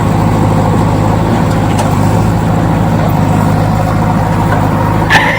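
Steady low engine drone, like a heavy diesel machine running at idle, with a short higher-pitched squeak near the end.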